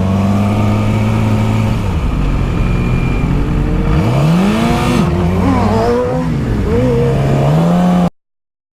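Motorcycle engine running steadily, then revved several times from about halfway through, its pitch rising and falling sharply with each throttle blip. The sound cuts off abruptly near the end.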